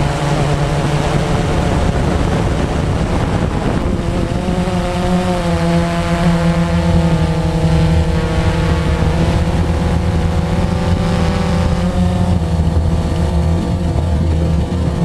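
Blade 350 QX quadcopter's electric motors and propellers running in flight: a loud, steady hum. About four seconds in, a higher set of tones joins it and shifts slightly in pitch now and then as the throttle changes.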